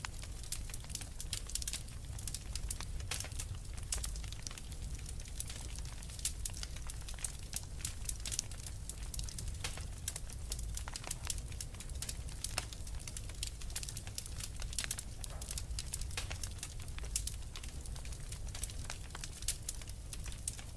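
Wood fire burning in a fireplace, crackling with many small irregular snaps and pops over a low steady rumble of the flames.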